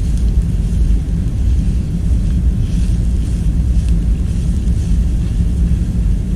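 Steady, loud, deep ambient rumble, like a machinery or ventilation hum, with faint brief higher rustling sounds now and then.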